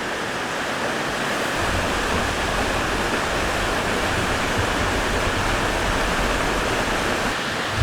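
Mountain stream rushing steadily over rocks close by, an even, unbroken sound of flowing water.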